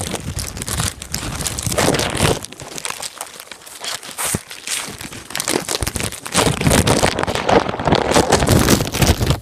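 A plastic bag wrapped around an iPad, crinkling and rustling right against its microphone in a dense, irregular crackle that grows louder about two-thirds of the way through.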